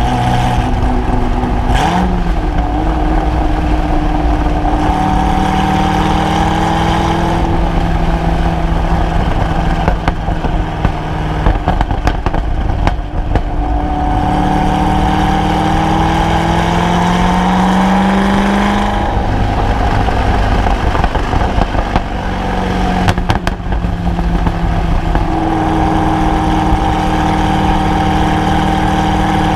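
Supercharged LS7 V8 of a C6 Corvette Z06 running through a Corsa exhaust while driving. The revs climb gradually over several seconds and fall back a few times, with some crackle from the exhaust in between.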